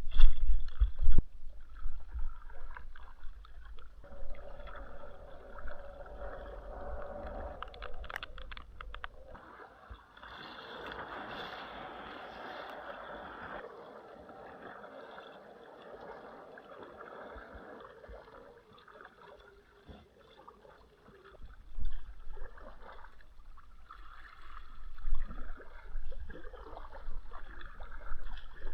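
Water sloshing and splashing around a fishing kayak, with knocks and low rumbling on the microphone at the start and again in the last several seconds.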